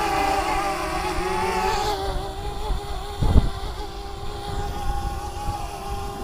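DJI Mavic Mini quadcopter's propellers whining steadily as it hovers, with wind buffeting the microphone and a strong gust about three seconds in.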